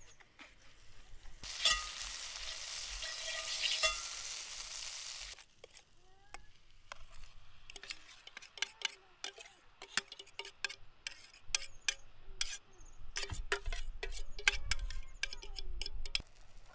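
A hot pan sizzling loudly for about four seconds, then a run of quick clicks and taps of a utensil against the pan as the banana-and-egg pancake cooks.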